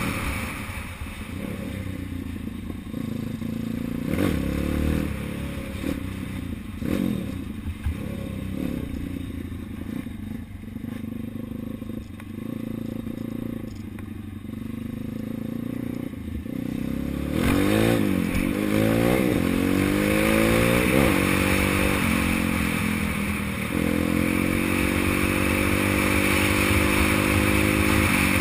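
Engine of a 140cc big-wheel dirt bike being ridden: short throttle blips early on give way to the revs rising and falling several times about two-thirds through, then a steady higher-revving run near the end, with some clatter from the bike.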